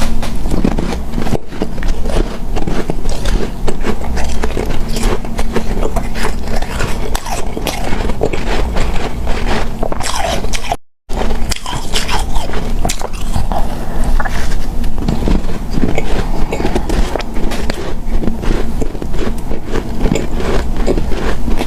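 Biting and chewing of powdery, snow-like ice: a dense run of crunches and scrapes, broken by a short silent cut about halfway through.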